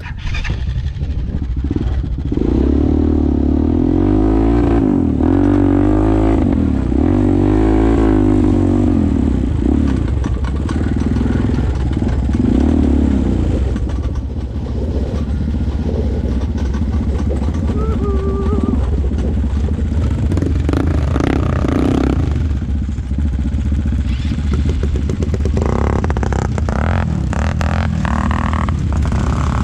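ATV engine running under way, its pitch repeatedly rising and falling as the throttle is worked, with some clattering.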